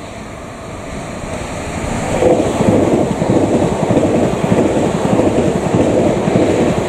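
Train passing close by, a rumbling noise that builds through the first two seconds and then holds loud.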